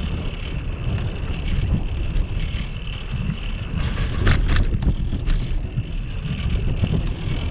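Wind buffeting the microphone of a camera on a moving bicycle, a steady low rumble, with a few sharp clicks a little past the middle.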